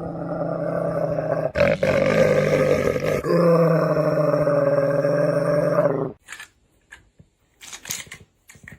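A pet animal's long, low, steady growling call, broken twice briefly, stopping about six seconds in.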